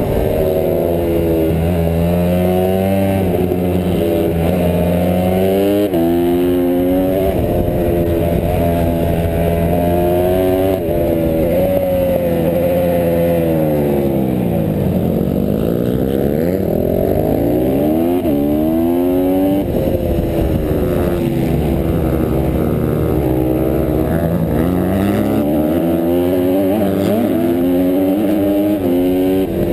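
Honda CRF150R pit bike's single-cylinder four-stroke engine racing hard. The revs climb and drop sharply again and again through the gear changes. Twice it falls away to low revs and then winds back up, as for a slow corner.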